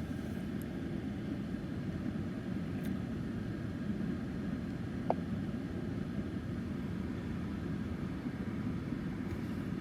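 2019 BMW M550i's twin-turbo V8 idling steadily, a low rumble heard from inside the cabin, with one short beep about five seconds in; the rumble drops away at the very end as the car is switched off.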